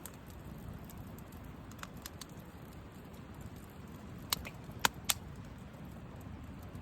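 Wood campfire burning with a steady low rush, a few faint crackles, then three sharp pops from the burning wood in the second half.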